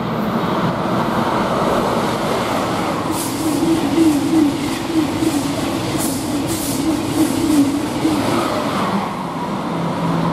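Eurostar Class 373 high-speed train passing through the station without stopping: a loud, steady rush of wheel and running noise with a wavering hum, and a run of sharp clicks through the middle as the carriages go by.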